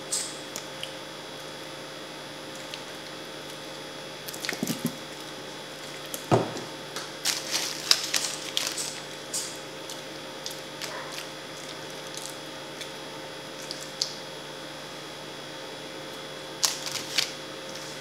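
Close-miked eating sounds: wet chewing, smacking and crackly clicks that come in irregular bursts, busiest a few seconds in and again near the end, over a faint steady hum.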